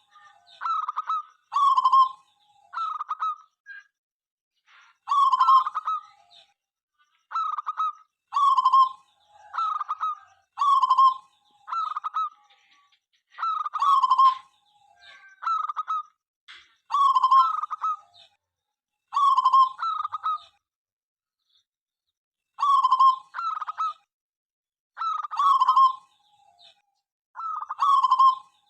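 Local zebra dove (perkutut) cooing: short rolling phrases of a few quick notes, repeated every second or two, with one longer pause about two-thirds through.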